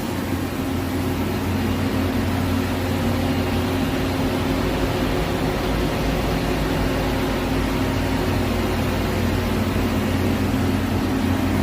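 CNC lathe running steadily: a low machine hum with an even hiss over it.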